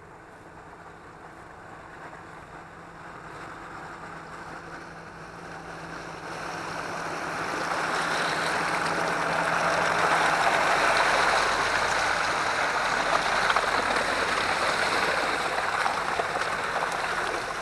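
Off-road 4x4 running with a low engine hum while splashing through muddy water, the rush of water building after about six seconds and staying loud to the end.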